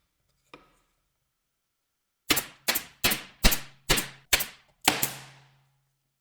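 A hammer striking seven times in quick, even succession, about two to three sharp blows a second, each ringing briefly. A single faint tap comes before the blows.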